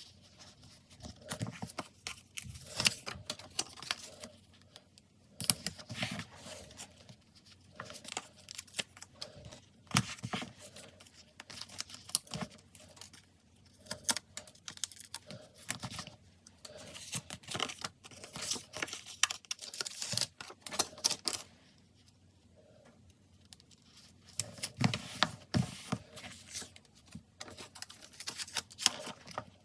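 Paper stickers being handled for diary decorating: irregular peeling, crinkling and light tapping on a desk, with a quieter pause about three quarters of the way through.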